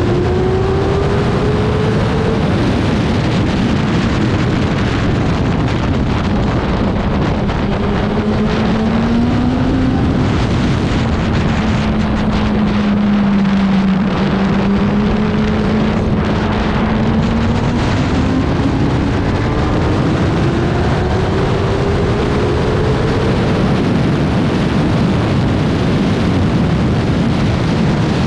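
Racing motorcycle engine heard onboard under heavy wind noise on the microphone. The revs climb briefly at the start, drop and hold low through the middle, then rise steadily again in the second half.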